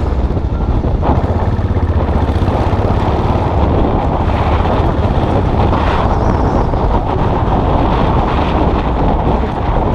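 Motorcycle engine running while riding, under heavy wind noise on the microphone.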